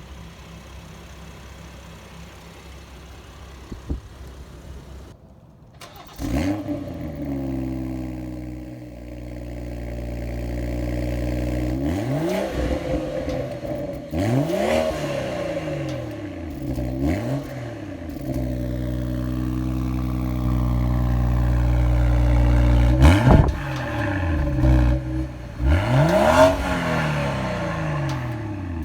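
BMW X3 M40i's 3.0-litre turbocharged straight-six exhaust, first idling quietly. About six seconds in it turns much louder, and the throttle is blipped several times, the revs shooting up and falling back, with a stretch of steadily held, slowly rising revs between the blips.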